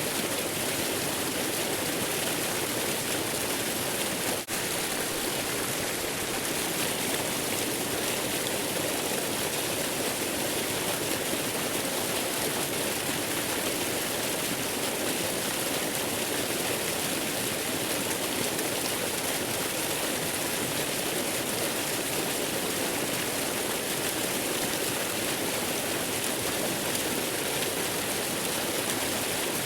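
Steady, even rush of a waterfall, with a momentary dropout about four seconds in.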